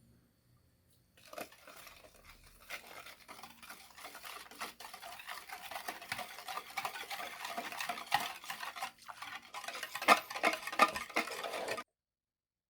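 A utensil stirring a milky chocolate mixture in a container, scraping and knocking lightly against the sides. It starts about a second in, gets busier, and cuts off abruptly near the end.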